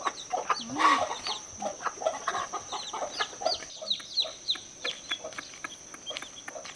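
Chickens calling: many chicks peeping in quick, falling high notes, several a second, with lower clucking mixed in. A steady high-pitched whine runs underneath.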